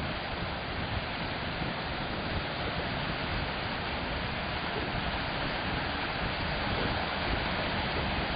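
Steady rush of wind buffeting the microphone, mixed with the wash of sea water.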